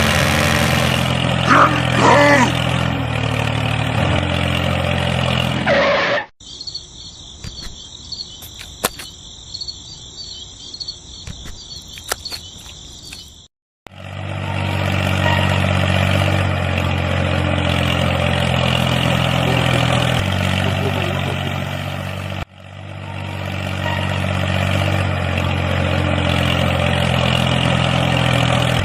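A steady engine-like hum, heard in three stretches split by abrupt cuts. Between about six and thirteen seconds in it is replaced by a quieter high, even chirring like insects, with scattered clicks.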